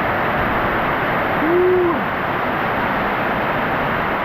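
Steady hiss of a light rain shower falling. About a second and a half in, a man gives one short hooting "woo" that rises and falls.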